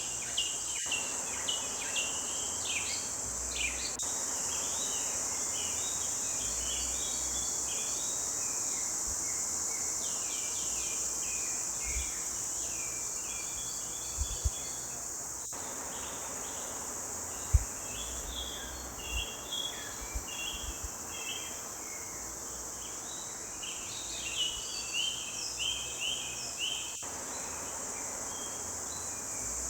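Forest birds singing in bouts of short, quick chirping phrases over a steady high-pitched insect drone. A few brief low thuds come partway through.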